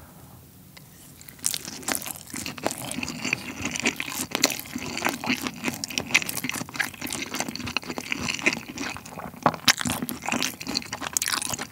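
Close-miked chewing of a piece of beef tartare sushi (raw seasoned beef over rice): a dense, irregular run of mouth clicks and chewing noises that starts about a second and a half in.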